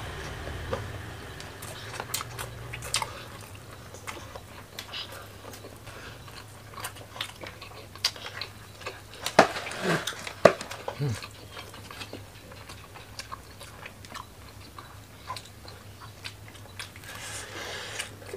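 Chewing and wet lip smacking of grilled chicken and rice eaten by hand. Scattered small clicks run throughout, a few louder smacks come near the middle, and a low steady hum sits underneath.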